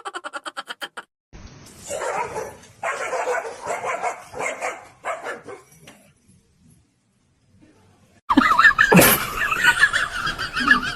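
A dog barking about five times in a row. After a couple of seconds of silence comes a loud knock, followed by a steady wavering pitched sound.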